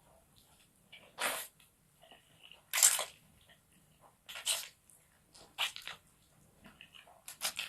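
Eating sounds from a person eating fried rice stick noodles: about five short, noisy mouth sounds spaced a second or so apart, the loudest about three seconds in and a quick double one near the end.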